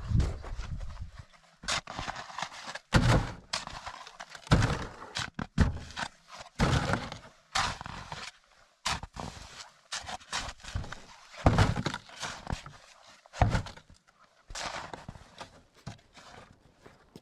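Crunching thuds in snow, irregular and about one every second or so, many with a low thump beneath them.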